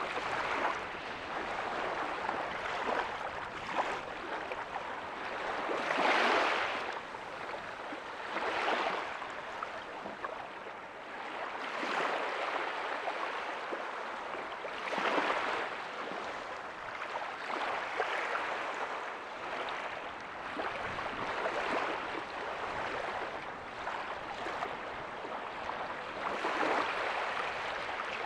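Small ocean waves breaking softly on a beach: a steady wash of surf that swells into a louder surge every few seconds.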